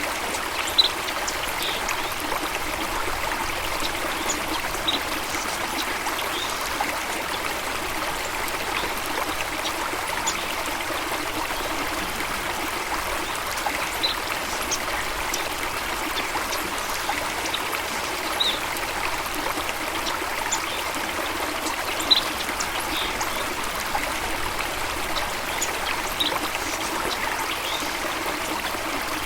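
Running water of a stream, a steady rush and trickle, with brief high plinks every few seconds.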